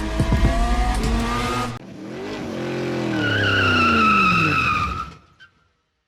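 A car engine revving over a pounding beat, then an abrupt cut about two seconds in to tyres squealing as the engine note falls away. It fades out about five seconds in.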